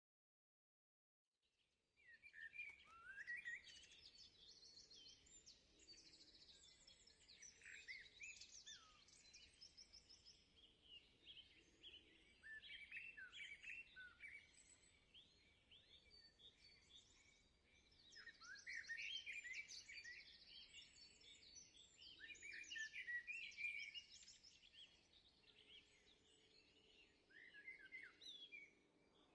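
Faint birdsong from small songbirds: quick chirps and warbling phrases in overlapping bursts, beginning after a second or so of silence.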